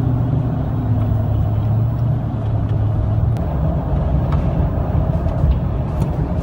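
Road traffic: a steady, low rumble of a motor vehicle's engine and tyres, with a low hum that fades about three and a half seconds in.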